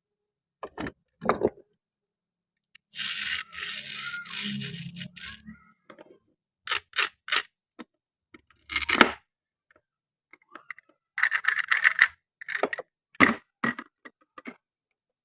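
Hard toy pieces being handled: a series of sharp clacks and taps, with a longer scraping rustle about three seconds in.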